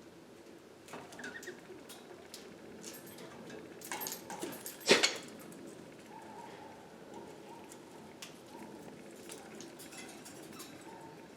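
Pet budgerigars moving and pecking about a coconut-shell hut: scattered light clicks and scratches, a cluster of knocks building to one loud knock about five seconds in, and a few faint short chirps.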